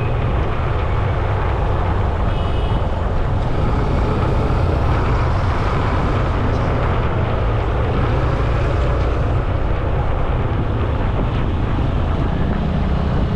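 Steady wind buffeting and road rumble on a moving action camera's microphone, with a heavy low rumble throughout. A brief faint high tone sounds about two and a half seconds in.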